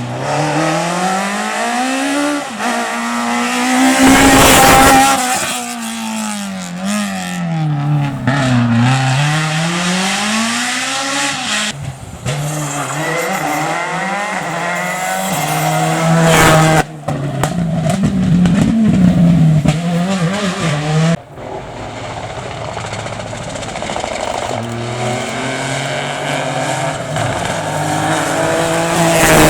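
Rally cars driven hard on a stage road, their engines revving up and falling back through gear changes, with tyre squeal in the corners. The loudest moment is a car rushing close past about four seconds in. The sound changes abruptly several times as one car's clip gives way to the next.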